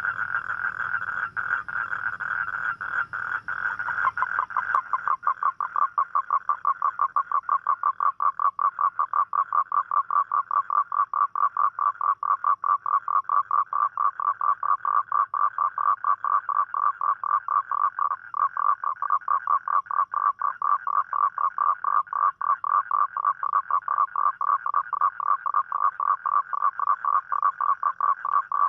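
Toad calling: after a steadier call in the first few seconds, a long, even trill of rapid pulses runs on without a break from about four seconds in.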